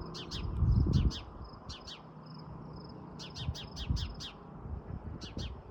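A bird giving runs of sharp chirps in quick groups, scolding. A low rumble about a second in.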